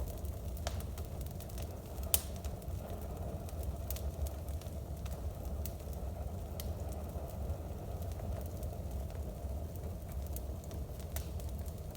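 Wood fire burning in a fireplace: scattered sharp crackles and pops, one louder pop about two seconds in, over a steady low rumble.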